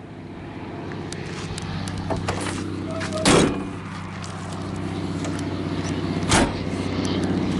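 Steady vehicle engine hum that slowly grows louder, with two short knocks about three seconds apart.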